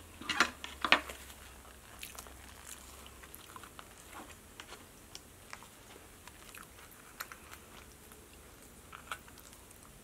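Close-miked chewing and soft wet mouth sounds of someone eating cheesy chicken Alfredo and bread, with many small clicks scattered throughout. Two louder sharp clacks come about half a second to a second in.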